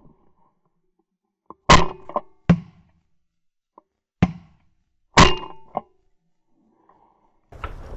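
A handful of sharp clacks, a few of them leaving a brief metallic ring, spaced about a second apart with quiet between them. Steady crunching footsteps start near the end.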